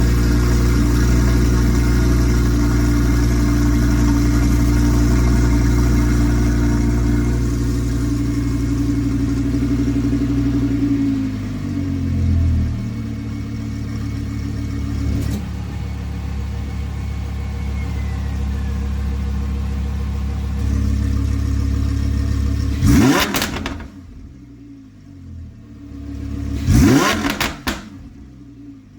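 Audi R8 V10 Plus's 5.2-litre V10 through a Kline Inconel aftermarket exhaust, idling at a raised speed and then settling to a lower idle about twelve seconds in. Near the end it is blipped twice in quick revs, each falling straight back with pops and crackles.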